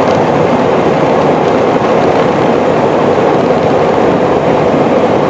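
Steady, loud rushing noise in the cockpit of an Airbus A320 during the landing rollout just after touchdown: engine and airframe noise as the jet rolls out and decelerates on the runway.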